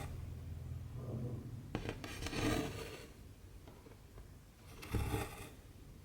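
Cotton embroidery thread being drawn through cross-stitch fabric, two rasping swishes: one a little past two seconds in and another about five seconds in, with a light tick just before the first.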